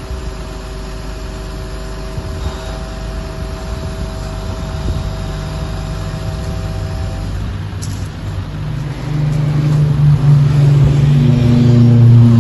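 Motor vehicle engine: a steady low rumble at first, then an engine note swelling and growing louder from about nine seconds in.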